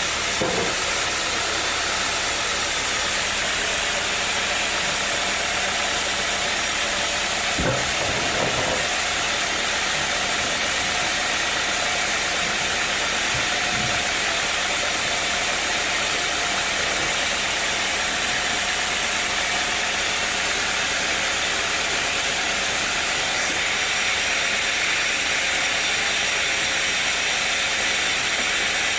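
A machine's engine running steadily under a strong, even hiss, with no change in level.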